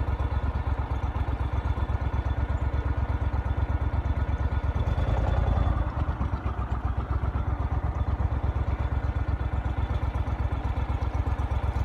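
Engine of the vehicle or boat they are riding in, running steadily at low speed, with a brief swell about five seconds in.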